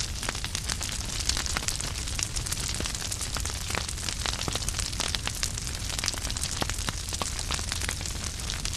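Wood fire crackling in a fireplace: a steady stream of sharp pops and snaps over a constant hiss and low rumble of the flames.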